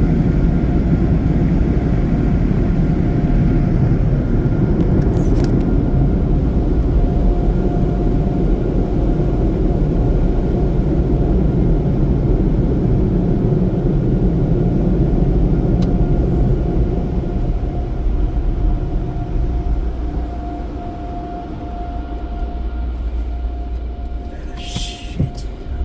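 Car wash tunnel dryers blowing on the car, a loud steady rushing rumble with a constant whine over it. It dies down about two-thirds of the way through as the car pulls out of the tunnel.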